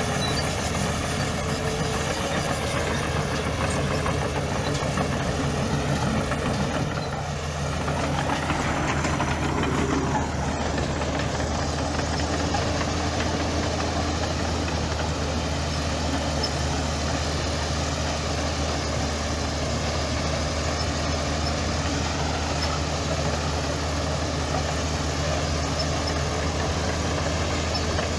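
Diesel engine of heavy earthmoving machinery running steadily with a deep, even hum, its note briefly dipping and then rising and falling about eight seconds in.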